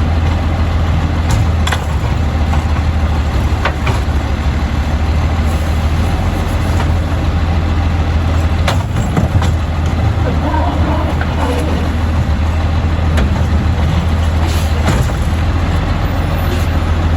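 Autocar side-load garbage truck's engine running steadily, with a few sharp clanks along the way.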